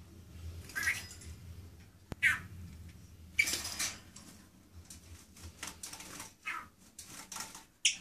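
A pet bird bathing in its cage: a string of short, noisy bursts of splashing water and fluttering wings, irregularly spaced a second or so apart, the longest about three and a half seconds in. A single sharp click about two seconds in.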